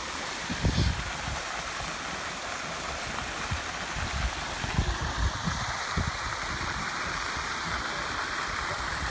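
Waterfall rushing steadily, with occasional low buffeting on the microphone.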